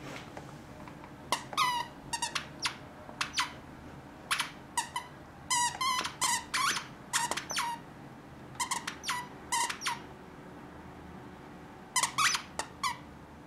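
Plush squeaky toy squeaked over and over in short squeaks, coming in several quick clusters with pauses of a second or two between them.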